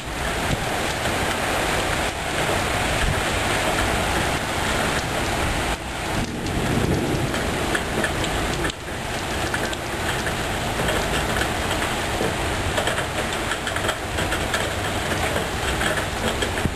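Heavy rain falling steadily in a thunderstorm, a dense even hiss of rain hitting surfaces.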